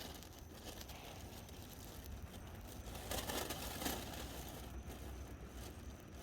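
Faint rustling, a little louder about three seconds in, over a steady low background noise.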